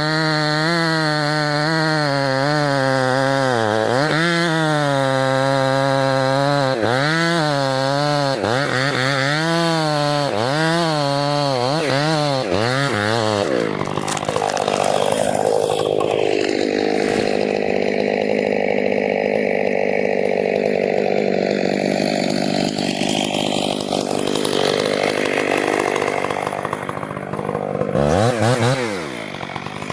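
Chainsaw running under load as it cuts into a tree trunk. For the first half its engine pitch wavers up and down with each push into the wood. Then it settles into a denser, rougher cutting sound, and near the end the revs dip and climb again.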